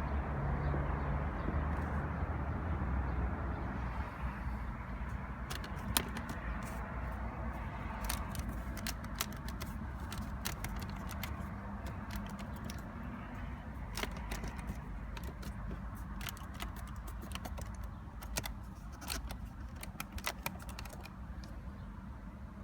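Kia Cee'd JD door handle being worked over and over, giving irregular sharp clicks and clacks from about five seconds in until near the end, without a squeak now that the squeak has been cured. A steady low rumble sits underneath, louder at the start.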